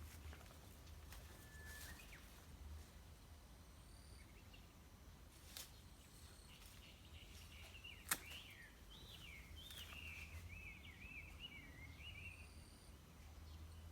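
Quiet outdoor ambience: a bird sings a rapid, warbling song for several seconds in the middle, over a faint low rumble, with a few sharp clicks, the loudest about eight seconds in.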